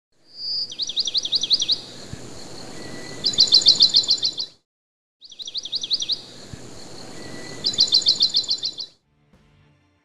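Songbird singing: a run of rapid, falling chirps, then a faster run of bright repeated notes over a light hiss. The same phrase is heard twice, with a brief silence between.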